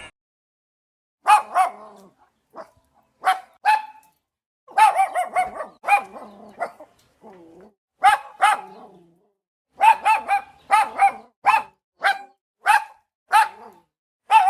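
A dog barking over and over in short, sharp barks, some single and some in quick pairs or runs, with dead silence between them.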